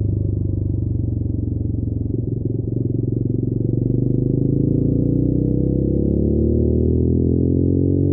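TVS Raider 125's single-cylinder engine pulling the motorcycle along, with a brief dip about two seconds in and then a steadily rising pitch as it accelerates.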